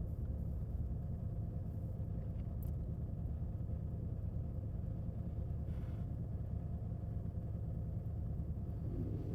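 Steady low mechanical hum heard inside a car's cabin in a PDQ LaserWash 4000 touchless car wash, with no change in level throughout.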